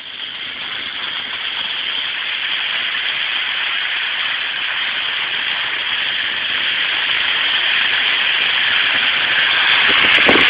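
Road noise of a car driving on a wet, slushy street: a steady hiss that grows gradually louder.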